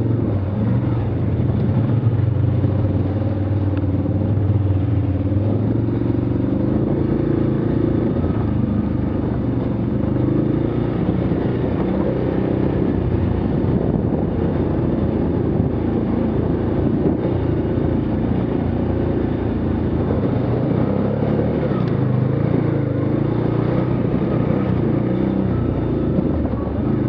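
Small vehicle engine running continuously while riding, its revs rising and falling.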